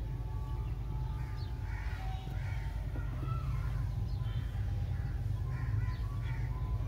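Birds calling repeatedly, short calls roughly once a second, over a steady low rumble.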